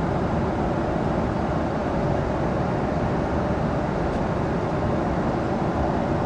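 Steady airliner cabin noise in flight: an even, unbroken rush.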